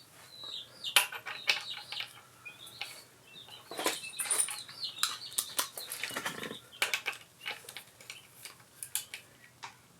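Metal hand tools clinking and clanking against engine parts, a string of short irregular knocks and taps, as a motorcycle engine is being worked on during teardown.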